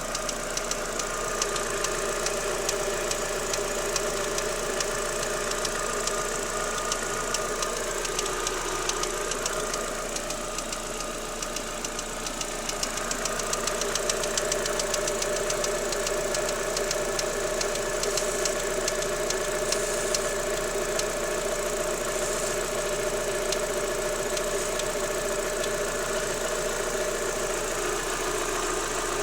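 Daewoo Lanos 1.6 16V engine running with a fast, even ticking knock that softens briefly about ten seconds in and then returns. The knock comes from the timing belt and its rollers: it goes away when they are wetted with water, and replacing the belt and rollers cured it.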